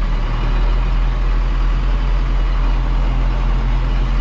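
Diesel engine of farm harvest machinery running steadily at a constant speed, with a deep even hum.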